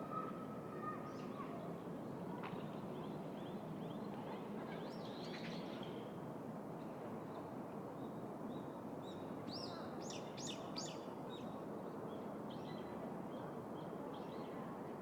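City park ambience: a steady low hum of the surrounding city with small birds chirping over it, a quick run of high calls coming about ten seconds in.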